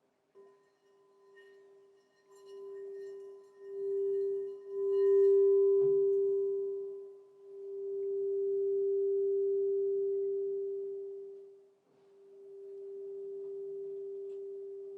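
Crystal singing bowl ringing with one steady, pure tone that swells and fades in slow waves. A light tap sounds near the start and another about six seconds in.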